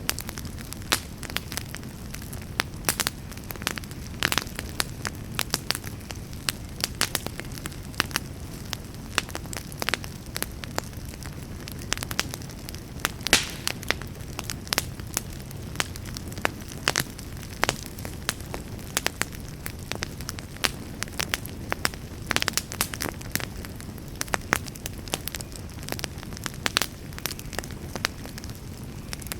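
Wood campfire burning steadily, with frequent irregular pops and crackles over a low, steady rumble of the flames.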